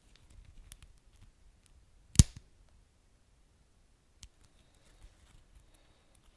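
Wood fire crackling, with scattered small snaps and one loud pop about two seconds in.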